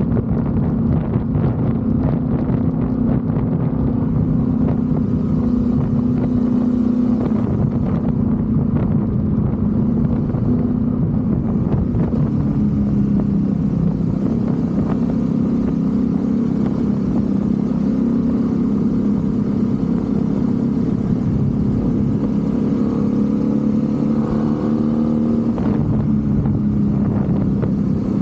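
BMW F850 GS motorcycle's parallel-twin engine running steadily, its note dipping and rising a couple of times as the throttle or gear changes.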